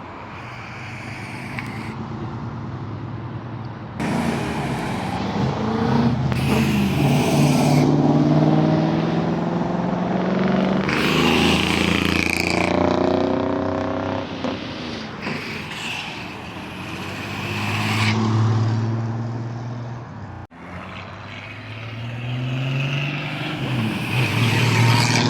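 Car and motorcycle engines revving hard and accelerating away one after another in launches, their pitch rising as each pulls off. A sudden break about twenty seconds in.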